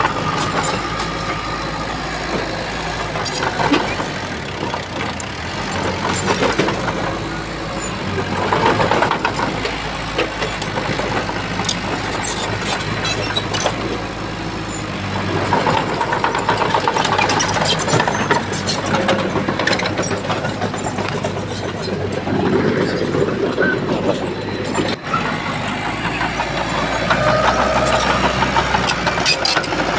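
Heavy diesel engine of a Shantui bulldozer running, its level swelling and easing every few seconds as the machine works, with scattered metallic clicks and clanks.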